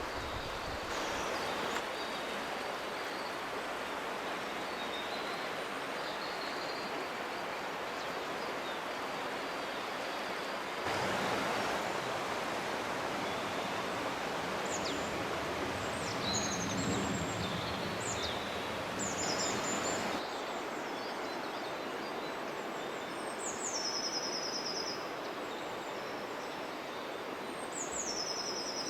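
Steady rushing outdoor ambient noise, with short high bird calls and a few falling bird trills in the second half.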